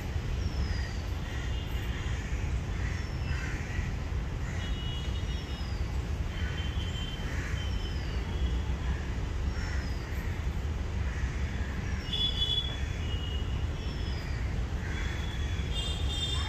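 Birds calling over a steady low rumble: a short, high, falling whistle repeated about every two seconds, with bursts of chirping between.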